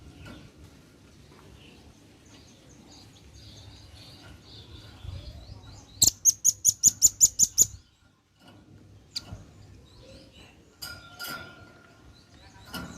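Male velvet-fronted nuthatch (red-billed nuthatch) calling: faint high chirps, then about six seconds in a loud rapid run of about ten sharp high notes, with more scattered chirps near the end.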